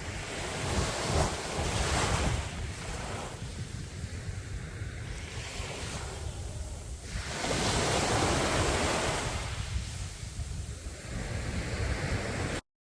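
Sea waves breaking and washing up the beach, swelling twice, over a steady low rumble of wind on the microphone. The sound drops out completely for about a second near the end.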